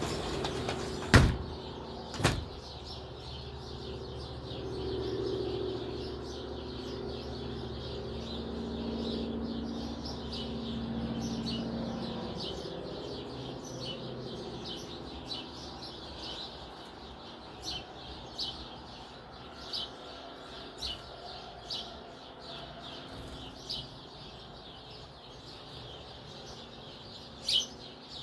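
Small songbirds giving short, high chirps again and again. Two sharp knocks come about one and two seconds in, and a low rumble runs under the first half.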